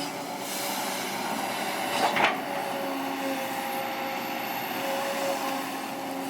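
Kobelco SK200-8 excavator working: steady diesel engine and hydraulic noise with a thin, steady hydraulic whine, and a brief knock about two seconds in.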